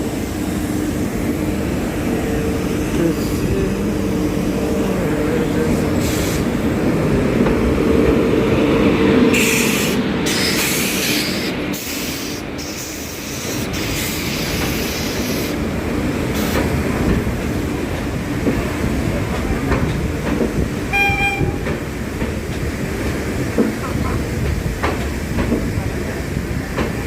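Passenger train running past on the rails, a continuous rumble with wheels clattering over the track. A short pitched tone sounds about three quarters of the way through.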